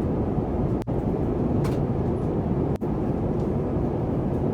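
Steady low cabin noise of a jet airliner in flight, the even rush of engines and airflow, broken twice by a momentary dropout.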